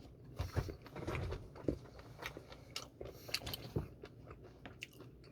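Faint chewing close to the microphone: soft mouth sounds with scattered small clicks.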